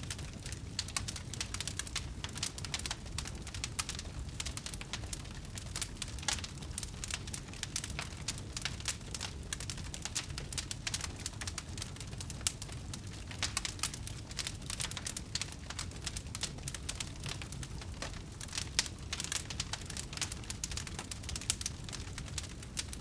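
Wood fire in a fireplace crackling, with many small irregular pops and snaps over a low, steady rumble of the flames.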